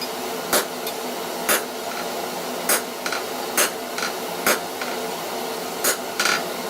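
Hand hammer striking hot steel bar stock on a hot cut hardy, cutting a forged wedge off the bar: about seven sharp blows roughly a second apart, over a steady hiss.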